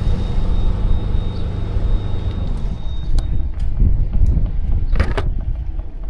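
Engine of a tracked aerial lift running steadily, its note changing about two and a half seconds in, with several sharp knocks near the end.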